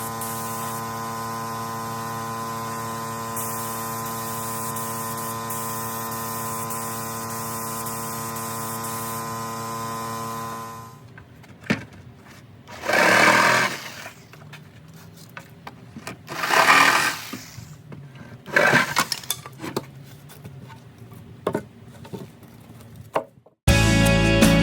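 A steady, even machine hum that stops about eleven seconds in, followed by three short hissing bursts a few seconds apart and a few clicks; guitar music begins near the end.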